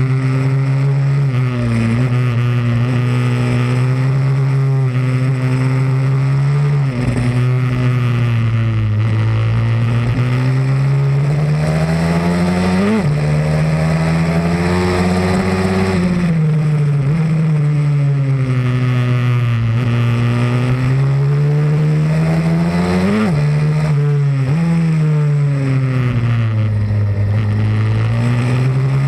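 Pit bike's single-cylinder engine at full work on a track lap: revs climb and fall over and over with the throttle, with sudden drops in pitch after the highest climbs.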